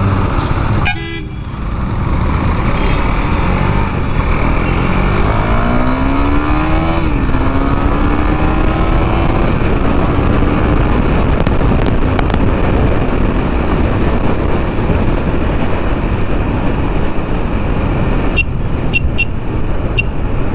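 KTM Duke 390's single-cylinder engine pulling away under acceleration over heavy wind and road noise: its pitch climbs, drops with an upshift about seven seconds in, then rises again more slowly. Several short horn toots from traffic come near the end.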